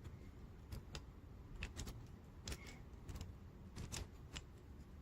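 Light clicks and taps of plastic gel pens being handled, about a dozen at uneven intervals.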